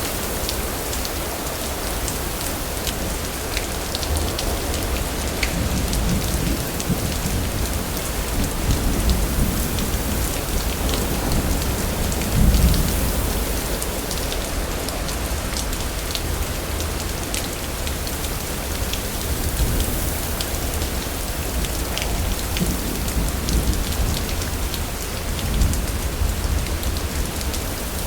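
Steady rain falling on surfaces, with scattered sharp drips. Low thunder rumbles swell up a few times, the loudest about twelve seconds in and another near the end.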